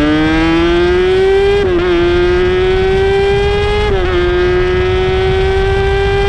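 Inline-four sport bike engine at high revs, accelerating hard. Its pitch climbs steadily and drops briefly at two upshifts, near two seconds and near four seconds in, then rises more slowly in the higher gear.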